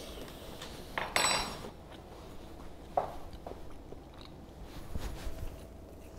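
Someone chewing a mouthful of strawberry shortcake, with a few short scrapes and taps of a fork; the loudest is about a second in.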